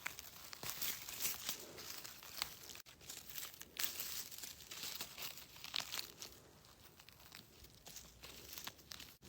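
Dry leaf litter rustling and crackling irregularly underfoot and under hand while foraging on the forest floor.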